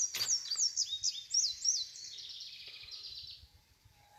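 A songbird singing: a quick run of about eight high whistled notes, each sliding downward, then a fast trill that fades out.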